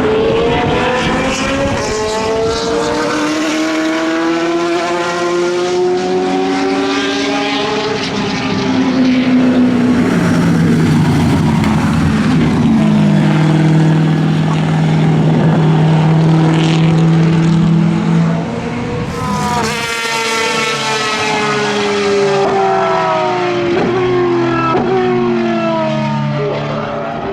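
Endurance racing cars passing at full speed, one engine after another, their pitch gliding up and down as they go by. A lower, steadier engine note holds through the middle, and another loud car arrives about two-thirds of the way through.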